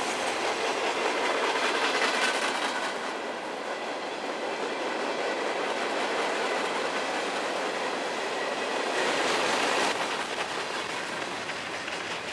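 Freight cars of a mixed freight train rolling past close by: a steady rumble of steel wheels on the rails, with repeated clicking as the wheels cross rail joints.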